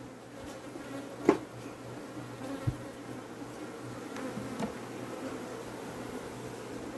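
Africanized honey bees buzzing in a steady hum around an open hive. A few light knocks cut through it: a sharp one about a second in, a low thump near three seconds and a smaller one a little later.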